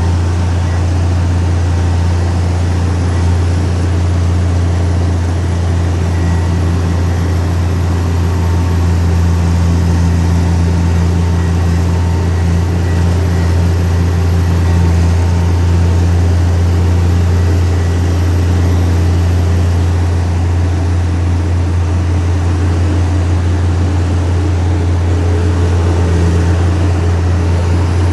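Heavy diesel engine of earthmoving equipment running steadily, with a strong, constant low hum.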